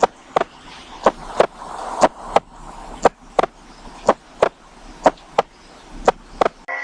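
Sharp clicks in pairs, about one pair a second, with the two clicks of each pair about a third of a second apart, over a faint steady background hiss.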